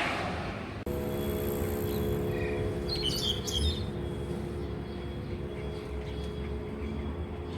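A bird calling: a short chirp, then a quick burst of high chirps about three seconds in, over a steady low hum.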